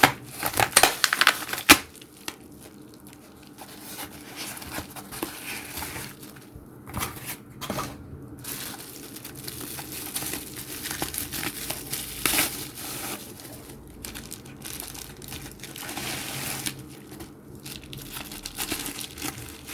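Packaging being unwrapped: continuous crinkling and tearing, with louder crackles in the first couple of seconds and again about two-thirds of the way through.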